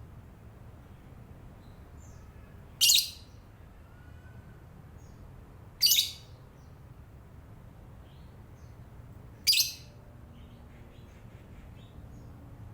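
Lovebird chattering: three loud, shrill screeches about three seconds apart, with faint short chirps between them.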